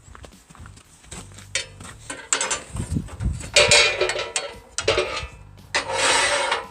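Metal clanking and scraping: steel parts and tools knocked and dragged against each other in a few separate bursts. The two loudest bursts come about three and a half seconds in and again near six seconds.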